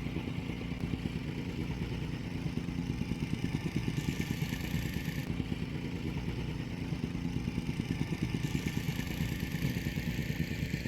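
An engine running steadily, a low rumble with a fast even pulse.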